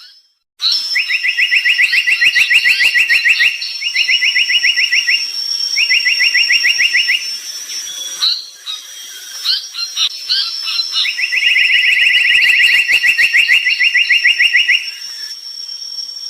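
Tali pocong coklat bird singing in full voice: four fast rattling trills of rapidly repeated notes, the last and longest about four seconds, with scattered higher chirps between them.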